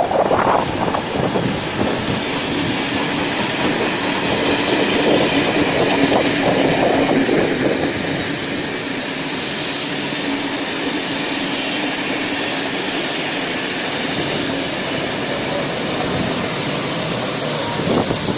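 Heritage train passing: NSW 44-class diesel locomotive 4490 hauling a rake of red passenger carriages, with steam locomotive 3642 on the rear coming by near the end. Steel wheels on the track make a steady rumble broken by bursts of clatter over the rail joints.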